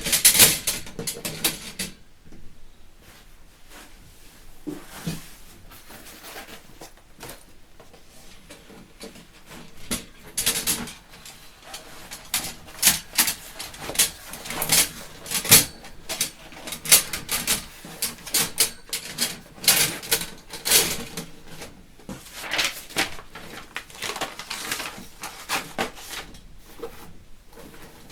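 Stainless steel fire pit parts being handled: a long run of irregular metal clicks, clinks and light knocks, sparse at first and busier from about ten seconds in.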